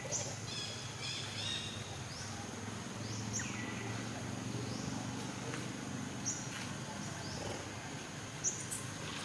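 Outdoor ambience: short, sharp rising chirps, most likely birds, repeat every few seconds over a steady high insect drone. A brief run of quick high notes comes about a second in.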